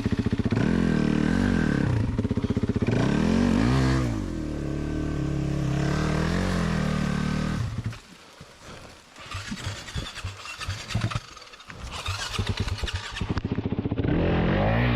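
Four-stroke dirt bike engine revving up and down repeatedly under throttle, falling to a low, uneven sputter about eight seconds in, then revving again near the end.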